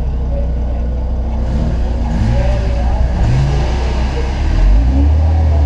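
Car engine idling heard from inside the open cockpit: a steady low drone that gets louder about four and a half seconds in.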